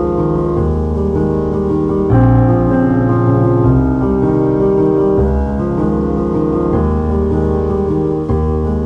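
Gentle background piano music, slow sustained chords changing about once a second.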